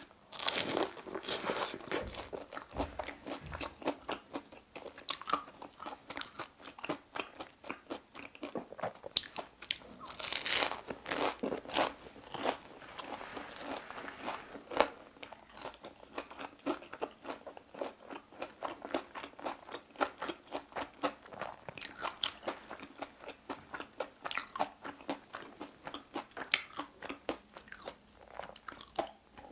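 Close-up crunching and chewing of a crispy fried Korean hot dog: irregular crackling bites with wet mouth sounds throughout.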